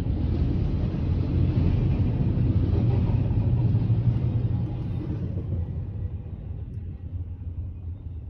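Steady low rumble of a passing double-stack freight train mixed with the car's own running, heard from inside the car's cabin. It drops away about five seconds in.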